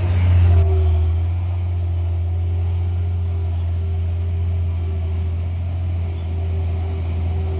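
Heavy truck engine running, a steady low drone with a faint steady whine above it.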